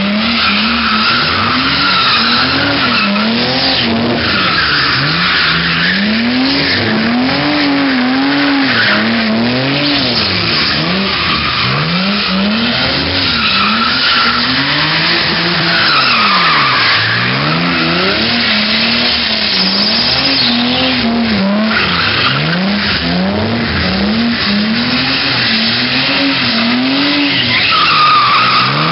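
Naturally aspirated 2JZ inline-six of a Toyota Supra MK4 revving up and down over and over as the car spins donuts, its tyres squealing and screeching on and off.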